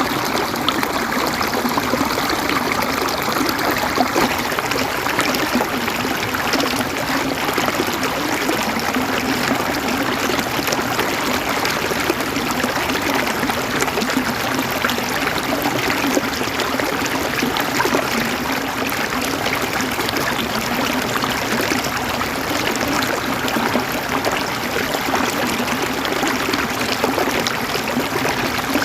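River water flowing and gurgling over stones, a steady, even rush.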